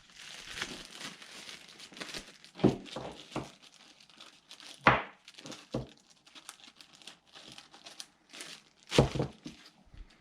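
Plastic bag crinkling and rustling as it is handled, with a few sharp knocks, the loudest about halfway through and again near the end.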